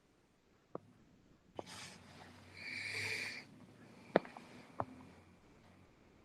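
Quiet room tone with a few faint sharp clicks spread through, and a short breathy sniff or exhale near the middle.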